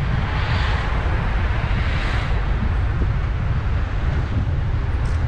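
Car driving along a road: a steady low rumble of road and engine noise with wind noise that swells twice.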